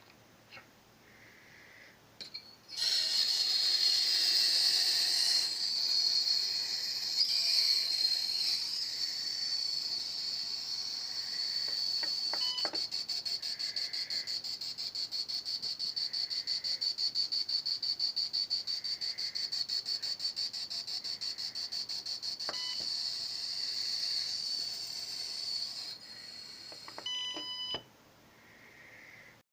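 ESMA 12.03 Peeling ultrasonic skin scrubber switched on and running: a shrill, high-pitched buzz starts about three seconds in and holds for over twenty seconds, pulsing rapidly through much of it. The unit gives short electronic beeps twice during the run and again near the end as it stops.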